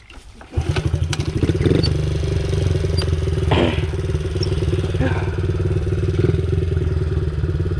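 Honda CRF50 pit bike's small four-stroke single-cylinder engine starting about half a second in and then idling steadily with a fast, even putter, after being checked to be in neutral.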